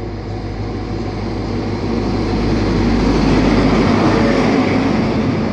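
High Speed Train (InterCity 125) approaching and passing close by, led by a Class 43 diesel power car: a steady engine drone and wheel-on-rail rumble grow louder, peak as the power car goes past about three to four seconds in, then ease slightly as the coaches run by.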